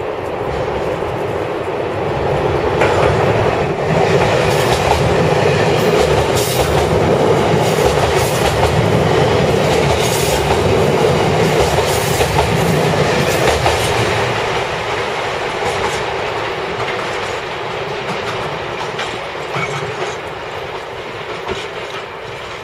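Electric train running close past, its wheels clacking over rail joints and points. It grows louder over the first few seconds, holds through the middle and fades toward the end.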